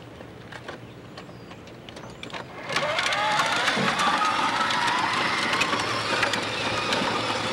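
Small electric motor of a battery-powered toy monster truck starting up about three seconds in and running with a steady whine that rises slightly in pitch and levels off.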